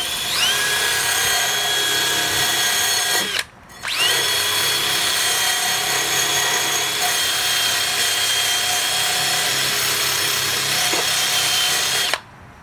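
Electric drill spinning a wire brush bit inside a car's exhaust tip: a steady motor whine over a harsh scrubbing noise. It stops briefly about three seconds in, spins back up, and cuts off suddenly near the end.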